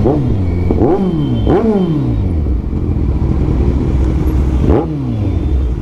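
Kawasaki Ninja 1000's inline-four engine through an Austin Racing full-system exhaust, loud, blipped four times: the revs jump sharply and fall back to a steady idle each time, three blips in quick succession in the first two seconds and one more near the end.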